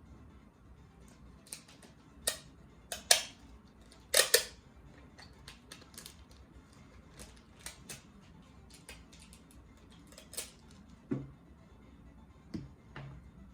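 Handling noises from crafting with a plastic bottle, tape and scissors: a series of sharp crackles, snips and rustles, loudest in a cluster of strokes about two to four and a half seconds in.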